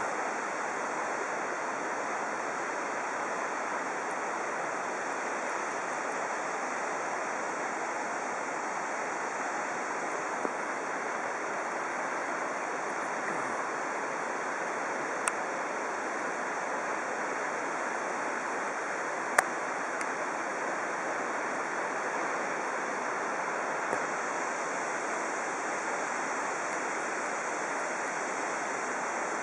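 Large waterfall, the 186 m drop of Casca D'anta, making a steady, even rush of falling water. A few brief clicks break in, the sharpest about two-thirds through.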